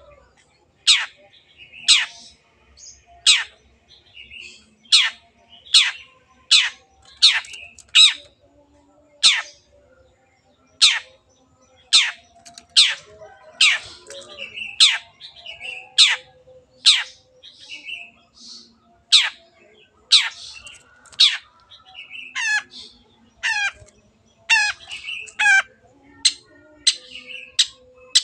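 Long-tailed shrike (cendet) calling in a long series of sharp, steeply falling notes, about one a second, with a few rasping, buzzy calls near the end.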